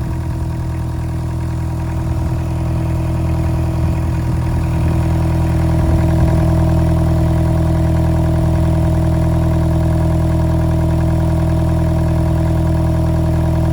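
Excavator's diesel engine idling steadily, a little louder from about five seconds in. The engine has been overheating and boiling over, and is running while its coolant is checked for a head gasket leak.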